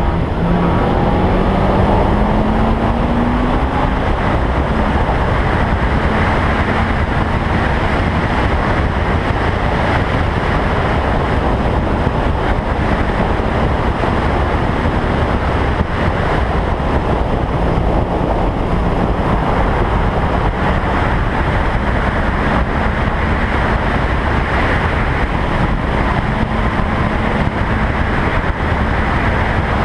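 Toyota Trueno race car at speed, heard from a camera mounted outside the car: heavy wind rush over the microphone with the engine running underneath. The engine note rises in pitch over the first few seconds, then holds fairly steady.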